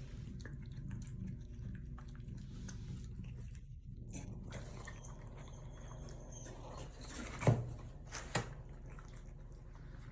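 Cats eating, faint chewing over a low steady hum, with two sharp knocks about a second apart near the end.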